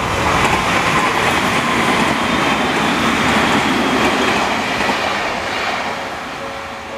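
Odakyu Enoshima Line train passing over a level crossing, wheels clattering on the rails. It is loudest in the first four seconds and fades toward the end, when the crossing's warning bell rings through again.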